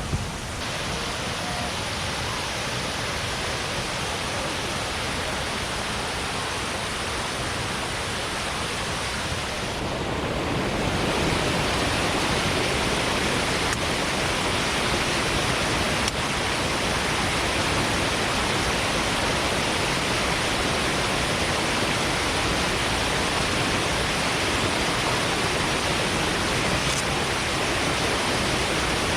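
Shiraito Falls' curtain of water falling over the rock face: a steady rush that grows fuller and louder about ten seconds in.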